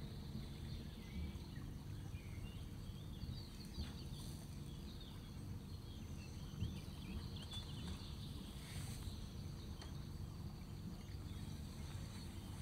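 Small birds chirping in short, quick calls, mostly in the first two-thirds, over a steady low rumble.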